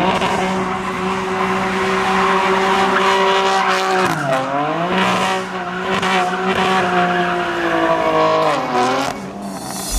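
Car engine held at high revs while the tyres squeal, as in a drift. The revs dip briefly twice, about four seconds in and again near the end, and climb back each time.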